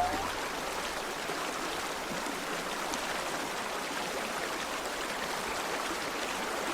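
A river flowing: a steady rush and babble of running water.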